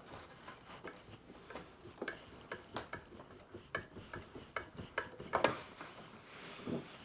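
Irregular light metallic clicks and taps of hand tools and small parts being handled while working on a lawnmower engine's fuel system, about fifteen of them, with the loudest cluster about five and a half seconds in.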